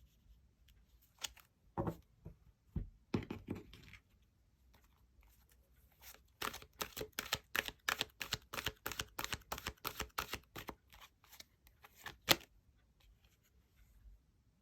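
Tarot cards being shuffled by hand: a few soft knocks and rustles, then a quick, even run of card snaps at about four a second for several seconds, ending with one sharp tap as the deck is set down.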